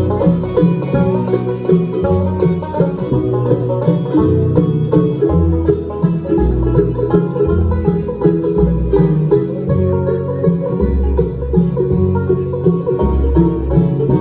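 Bluegrass instrumental break with no vocals: banjo prominent among plucked strings, over guitar and a bass walking between low notes.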